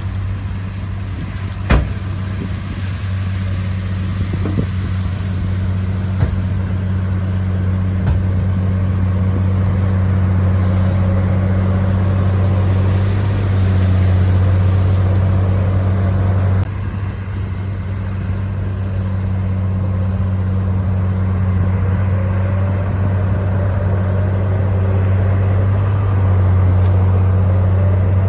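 Bulldozer's diesel engine running steadily at working revs, a deep continuous drone, with a sharp click about two seconds in. The tone shifts abruptly a little past halfway, and a faint rising whine comes in near the end.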